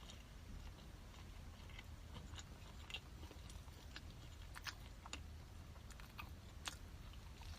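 Close-miked chewing and biting of a potato-shred pancake, heard as scattered soft crunches and mouth clicks over a low steady hum.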